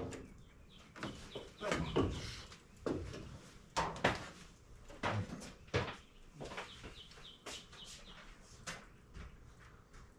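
Hand tools clinking and knocking against metal during work in an engine bay: a series of irregular short knocks and clicks, some in quick little clusters.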